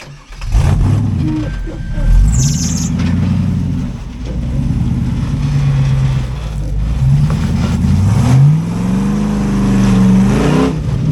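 Off-road rig's engine revving under load, its pitch rising and falling with the throttle; near the end it climbs in one long rev and then drops off sharply. A brief high-pitched noise sounds about two seconds in.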